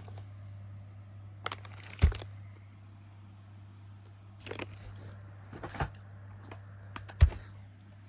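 Packaged fireworks being handled: cardboard and wrapping rustle and crinkle, and three knocks as boxes are set down, the loudest about two seconds in and near the end. A steady low hum runs underneath.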